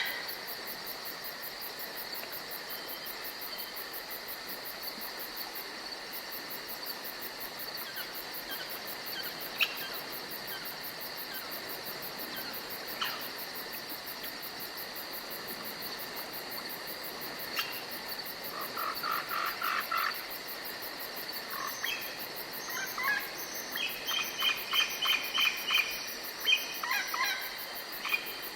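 Forest ambience: crickets and other insects chirring steadily. Animal calls come in quick series of short repeated notes about two-thirds of the way through and again near the end.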